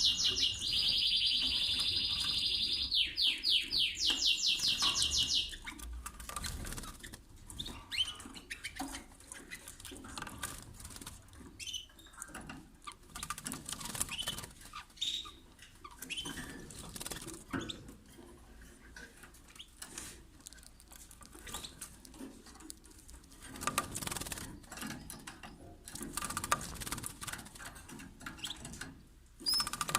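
Domestic canary singing a loud rapid trill for the first five seconds or so, changing pitch between phrases. Then quieter scattered chirps, small clicks and wing fluttering, with louder bouts of fluttering later on.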